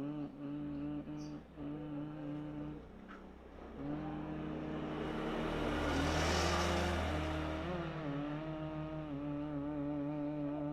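A person humming long, steady, low notes, with short pauses between them. A vehicle passes by in the middle, swelling up and fading away under the humming.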